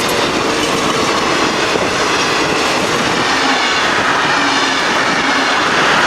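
Heritage passenger train hauled by two diesel-electric locomotives running past, with wheels clattering over the rails and engine noise, getting louder toward the end as it draws closest.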